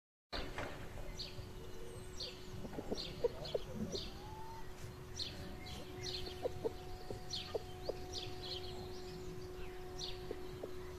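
Birds calling with short, high chirps repeated about every half second, starting abruptly after a moment of silence, over a steady low hum.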